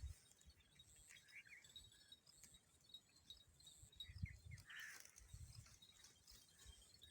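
Near silence: faint outdoor ambience with a few soft bird chirps, about a second in and again around four to five seconds, over a faint steady insect trill, and some low soft bumps.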